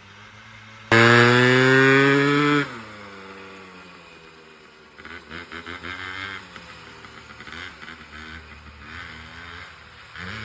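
Dirt bike engine revved hard for nearly two seconds, its pitch rising slightly, then the throttle is shut and the revs fall away. After that the engine revs up and down unevenly at a lower level.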